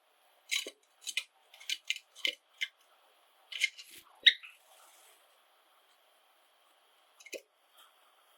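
Pet Java sparrows giving short, sharp chirps: a quick run of about ten over the first four seconds or so, then a pause and a couple more near the end.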